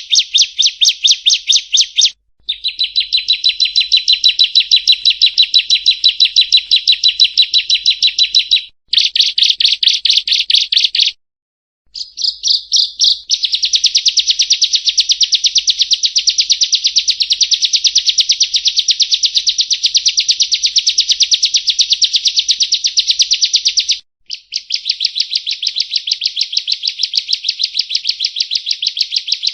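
Ciblek kristal, a small prinia, singing its rapid 'nembak' song as a masteran (tutor) recording: long runs of high, sharp notes repeated about six a second. The runs are broken by a few short pauses.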